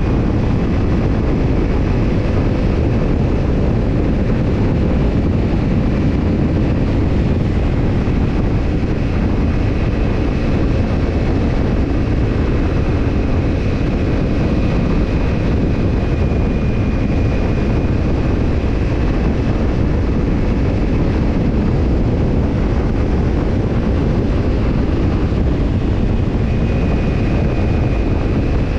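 Kawasaki Ninja 250's parallel-twin engine, breathing through a BEET NASSERT Evolution Type II titanium slip-on muffler, running at a steady, even speed with no change in revs.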